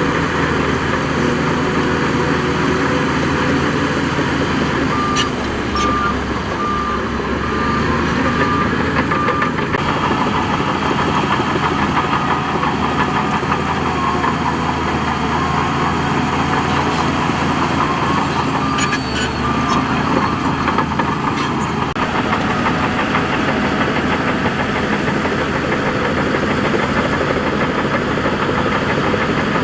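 Heavy diesel earthmoving machinery running steadily. A reversing alarm beeps in two spells, about five seconds in and again past the middle, and a few brief knocks come with it.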